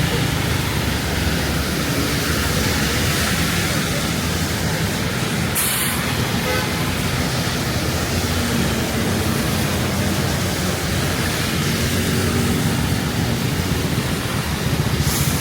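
Steady rain hiss mixed with city road traffic running by, engines rumbling low. A short sharp sound cuts through about five and a half seconds in.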